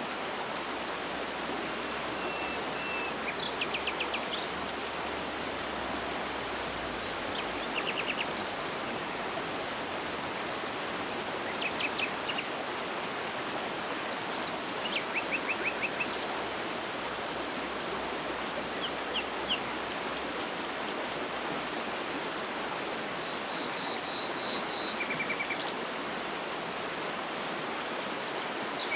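Steady rush of a waterfall, with small birds calling over it in short series of rapid high notes every few seconds.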